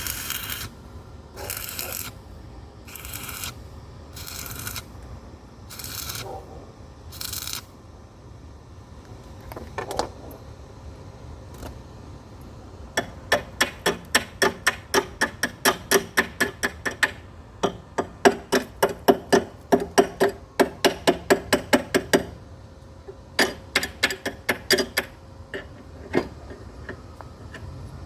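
Metalworking on a gate: about six scraping strokes on metal, one every second and a half or so, then long runs of quick sharp knocks on metal, three or four a second, in several bursts.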